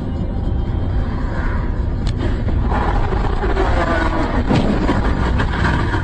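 Car driving, a steady low rumble of engine and road noise from inside the cabin, with a short knock about two seconds in and a busier mix of higher sounds in the second half.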